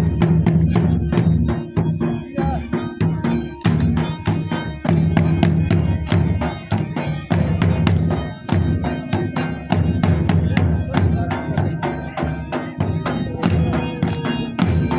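Live folk music played for an attan dance: a drum beaten in a steady, quick rhythm under a held, droning melody line.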